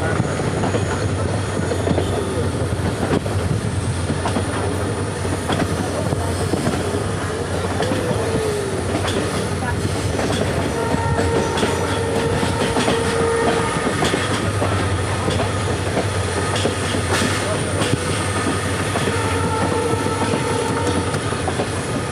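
Train running steadily along the track, wheels clattering over the rails, with faint on-and-off squealing tones.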